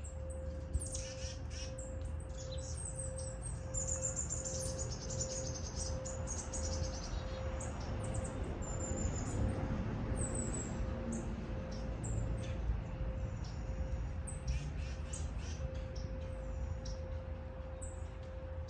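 Several small birds chirping and twittering in quick repeated high notes, over a steady low rumble of wind.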